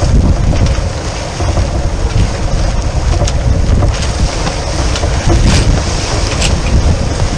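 Strong wind rumbling and buffeting on the microphone over a dense rush of noise aboard a sailboat, with a few sharp ticks scattered through it.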